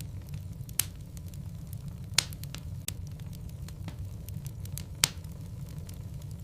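Burning logs in a fireplace crackling over a steady low rumble of flame, with a scatter of small ticks and three louder pops.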